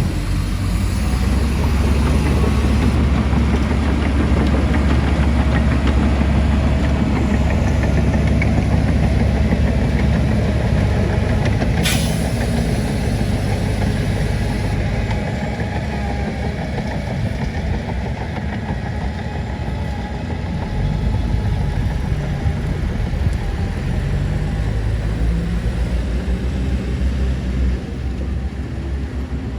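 Heavy diesel construction machinery running steadily, a low engine rumble, with one sharp click about twelve seconds in.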